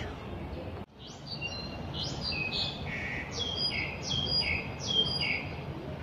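A songbird singing a run of clear high notes in short repeated phrases, each phrase stepping down in pitch, about five or six times over four seconds. It starts just after a brief dropout about a second in.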